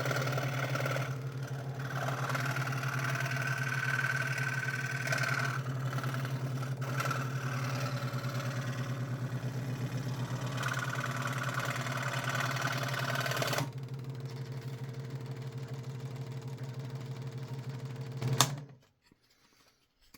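Scroll saw running with its blade cutting 3 mm craft plywood, a steady motor hum under a rasping cut. About two-thirds of the way through the cutting noise stops and the saw runs on alone, then it is switched off and falls silent near the end.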